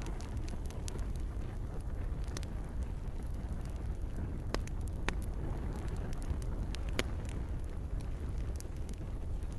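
Wood campfire crackling, with sharp pops at irregular intervals over a steady low rumble of burning, and gentle rain in the background.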